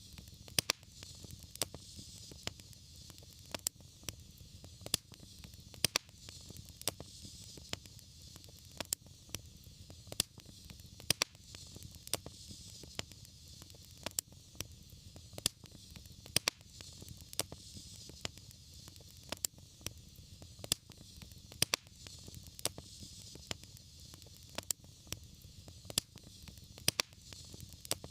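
Wood fire crackling, with frequent irregular sharp pops and snaps over a steady low rumble and hiss.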